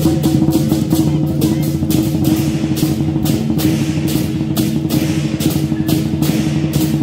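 Lion dance percussion starting up suddenly: a big drum beating fast with crashing cymbals about two to three times a second and a steady ringing tone held underneath.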